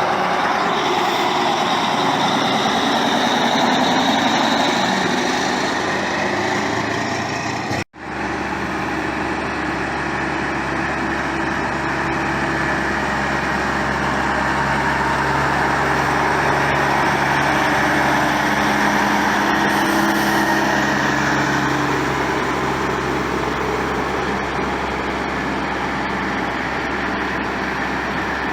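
Heavy truck diesel engines running steadily, with the sound cutting out for an instant about eight seconds in and then resuming as a steady engine hum.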